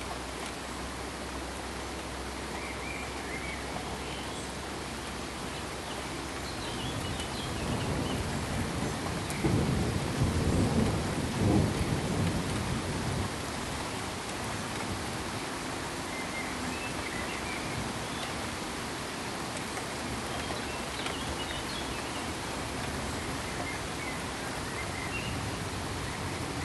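Steady, even hiss of pink sleep-aid noise, with a low rolling rumble that builds about seven seconds in, is loudest around ten to twelve seconds and dies away a second later. A few faint, short high chirps sit over the hiss.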